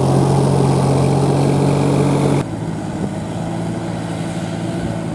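New Holland 4710 tractor's diesel engine running steadily; a little over two seconds in, the sound drops abruptly to a quieter, similar engine note.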